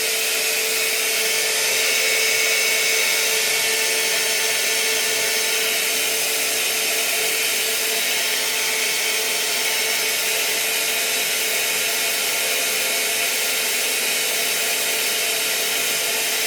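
Hair dryer running steadily: a constant rush of blown air with an unchanging motor hum.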